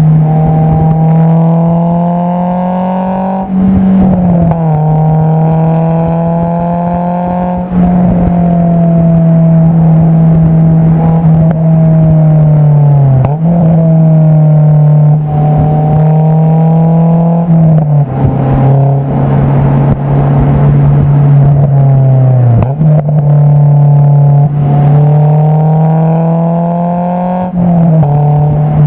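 Exhaust note of an AP2 Honda S2000's 2.2-litre inline-four through an Invidia Q300 exhaust, heard right at the tailpipe while driving. The pitch climbs gradually as the car pulls, then drops sharply about six times, as at gear changes.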